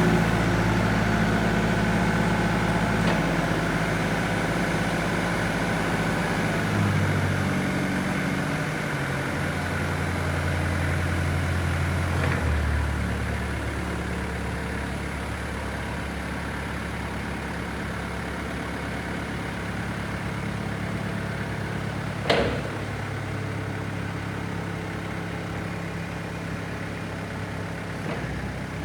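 Heden FD30T-1E1 diesel forklift engine running, its speed shifting a couple of times before settling to a steady idle. One sharp knock about 22 seconds in.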